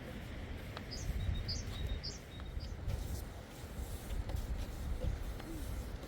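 A bird chirping: about five short, high chirps in quick succession in the first half, over a steady low rumble.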